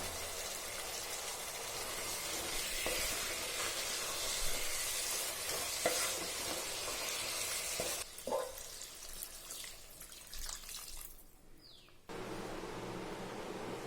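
Food sizzling in a frying pan while a spoon stirs it, with occasional scrapes and clicks against the pan. The sizzle dies down after about eight seconds and returns abruptly near the end.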